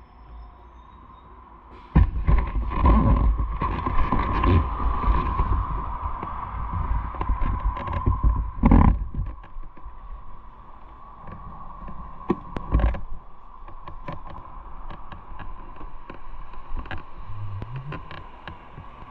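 Motorcycle running, with heavy low rumble from wind and handling on the microphone starting suddenly about two seconds in, and scattered knocks and clicks throughout.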